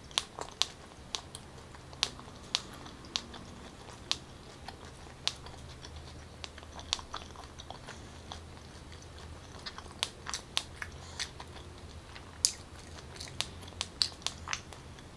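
Close-miked chewing of takoyaki (battered octopus balls): irregular sharp, wet mouth clicks and smacks, a quick cluster near the start and denser again in the last few seconds.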